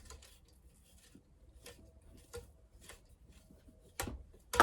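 Hand tools and metal parts being worked on a chainsaw handlebar anti-vibration mount: faint scraping and scattered light ticks, then two sharp knocks about half a second apart near the end.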